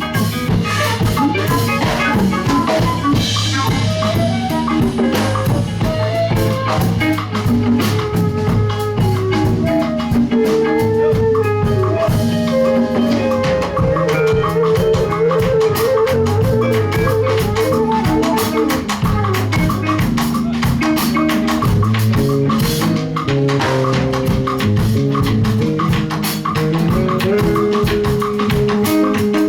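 Live band playing an instrumental passage: a drum kit keeps a busy beat under a bass line and a sustained melodic lead.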